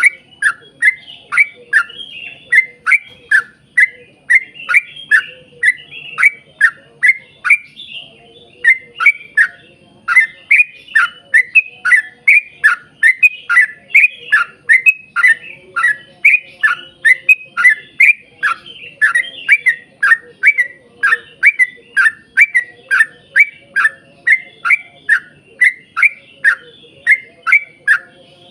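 Yellow-vented bulbul (trucukan) singing a long, fast run of short, downward-slurred notes, about two to three a second, with a brief break about eight seconds in.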